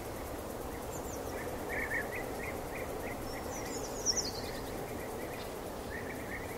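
Small birds chirping over a steady outdoor background hiss: short repeated chirps throughout, with a quick descending run of high notes about four seconds in.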